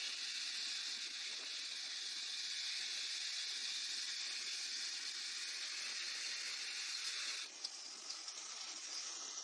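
A steady high hiss that thins out suddenly about seven and a half seconds in.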